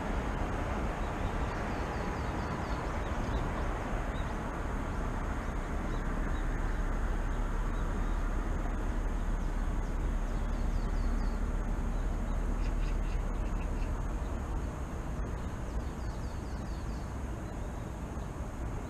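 Steady low rumble of city traffic, with small birds chirping faintly over it and a short run of rapid calls about two-thirds of the way through.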